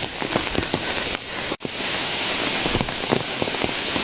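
Heavy rain falling, a dense steady hiss with many individual drops tapping close by. The sound cuts out for an instant about a second and a half in.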